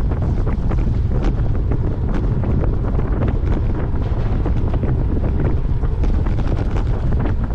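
Heavy wind buffeting the microphone while riding a road bike, with repeated short knocks and rattles as the bike runs over bumps in the road.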